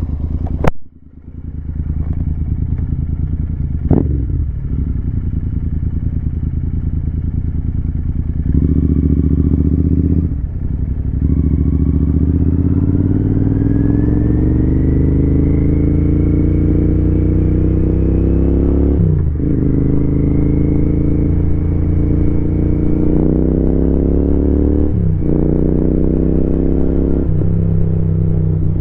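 Royal Enfield Continental GT 650's parallel-twin engine pulling through the gears. Its pitch climbs steadily under throttle and drops back at upshifts about 10 and 19 seconds in and twice near the end. A sharp knock sounds just under a second in.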